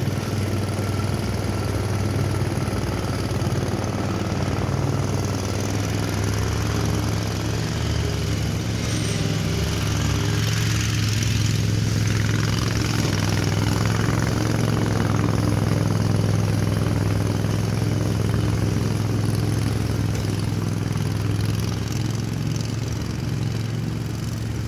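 Lawn mower engine running steadily, a low hum that grows louder toward the middle and eases off a little near the end.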